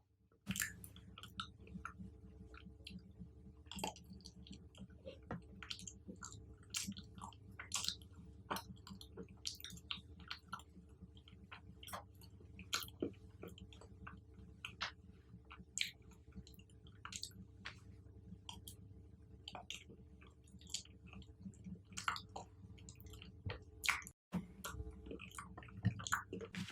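Close-miked chewing of fruit and chocolate-covered fruit: a steady run of wet mouth clicks and smacks at an irregular pace, over a faint low hum.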